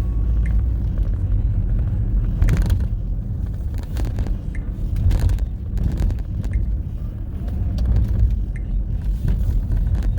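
Car driving: a steady low road rumble, with a few short knocks and thumps around the middle.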